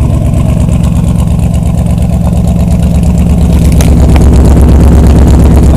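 Ford 400 V8 of a 1983 Ford Bronco idling shortly after a cold start, a loud, steady low exhaust beat that grows a little louder about halfway through.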